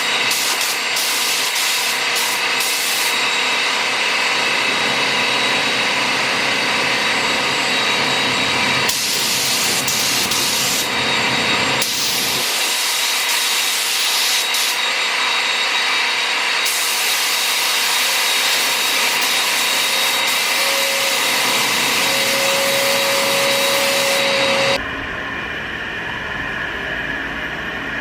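Compressed-air paint spray gun hissing steadily as base coat is sprayed, the hiss changing briefly a few times. Near the end the spraying cuts off, leaving a quieter, lower steady hum.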